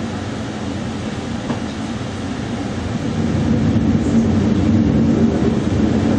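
Rail cars rolling on the track, a steady low rumble of steel wheels on rails as a double-stack container freight train passes alongside on the next track. It grows louder about three seconds in.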